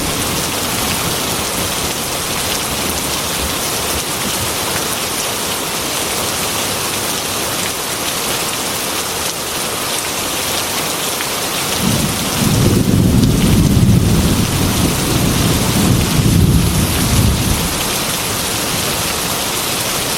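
Heavy rain beating on a glass window, a steady dense hiss. About twelve seconds in, a low rumble of thunder rolls for several seconds, then dies away.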